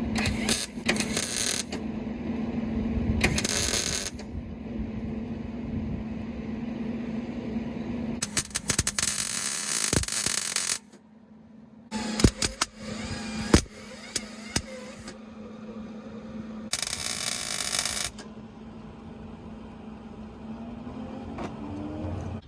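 Welder tack welding exhaust tips in place: five separate bursts of crackling, each one to two and a half seconds long, with quieter clatter between them and a steady low hum during the first part.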